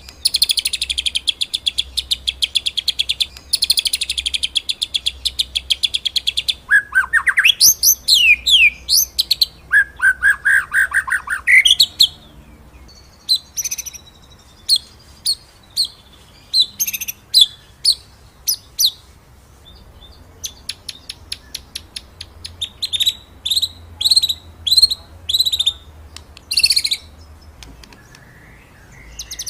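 White-rumped shama (murai batu) singing its rolling and shooting song. It opens with fast rolling trills for about six seconds, then gives loud whistles sweeping up and down, then a run of sharp, separate notes. A faint low hum lies underneath.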